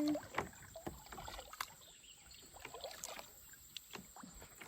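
Kayak paddling: faint, irregular splashes and drips of water from the paddle, with small scattered knocks.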